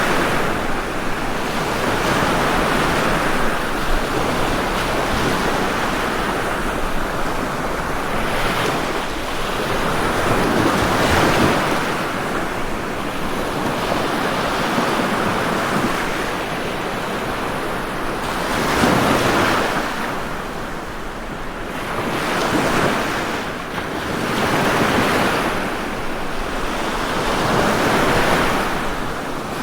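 Ocean waves breaking and washing on a shore, in a continuous surf that swells every few seconds with a louder surge around 19 seconds in.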